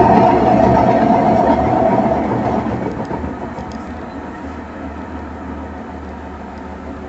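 Electrolux LT10B top-loading washing machine running with a loud rumble that dies away over about the first three seconds, leaving a quieter steady hum.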